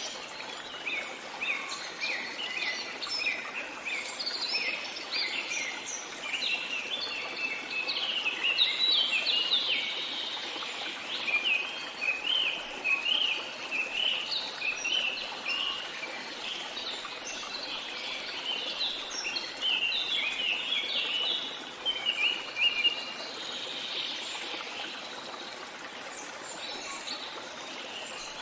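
A chorus of small birds chirping and singing in quick overlapping phrases, over a steady rush of running water. The chirping thins out in the last few seconds.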